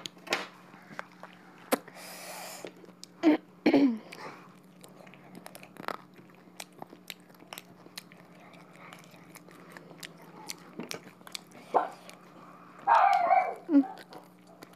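Close-miked chewing and sharp mouth clicks of someone eating rice and duck curry by hand, over a steady low hum. Short pitched voice-like sounds come in about three seconds in and again near the end.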